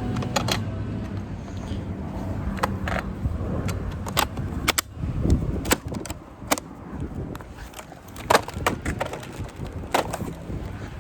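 Irregular knocks and clatter of hard plastic vacuum cleaner parts being handled and set down.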